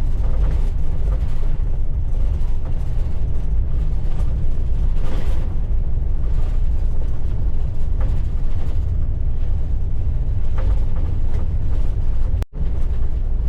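Vehicle road noise heard from the cab while driving slowly on a gravel road: a steady low rumble of tyres and engine that cuts out for a split second near the end.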